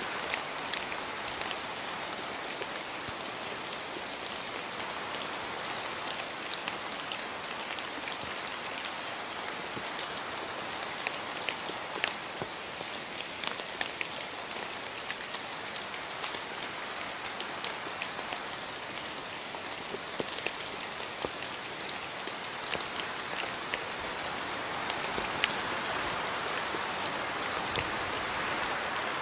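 Steady rain falling, an even hiss dotted with many separate drops ticking, swelling slightly near the end.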